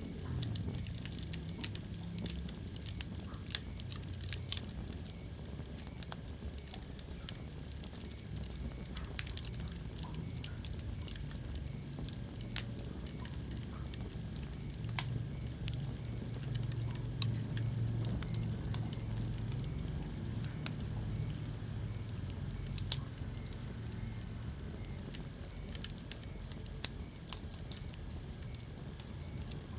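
Wood fire in a fireplace crackling, with irregular small snaps and a few louder pops scattered through, over a low steady rumble.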